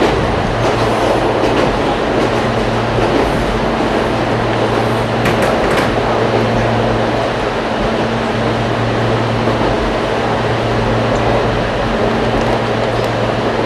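Running noise heard from inside an Ichibata Electric Railway 5000 series electric train at speed: a steady rumble of wheels on rail under a low, steady hum, with a short cluster of clicks a little past five seconds in.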